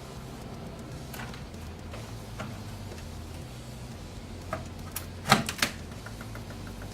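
Computer fans running with a steady low hum, while small hard parts click and tap now and then, with a quick cluster of sharp clicks about five seconds in.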